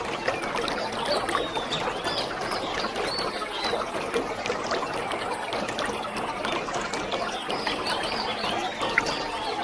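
Waterfall: a steady rush of falling, splashing water, with short high chirps sounding over it now and then.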